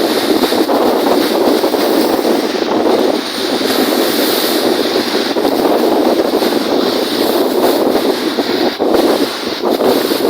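Strong wind gusting across the microphone in a loud, continuous rushing noise, with lake waves washing underneath.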